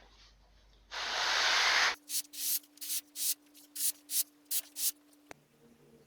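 Hand sanding of wood on a handmade setar: one long stroke of the abrasive, then a run of about ten short, quick back-and-forth strokes.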